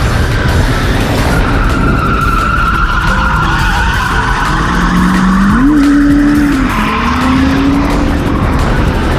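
Ford AU Falcon drift car sliding at full throttle, tyres squealing in a long high note over heavy tyre noise. Its engine note steps up about halfway through, holds, and climbs again.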